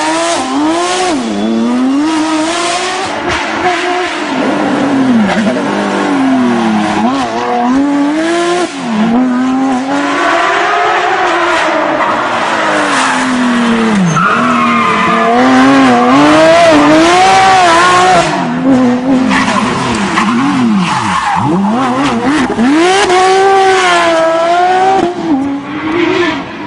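Porsche 911 GT3 rally car's flat-six engine revving hard, its pitch climbing and dropping again and again as it accelerates, shifts and brakes, with tyres squealing. It is loudest about halfway through.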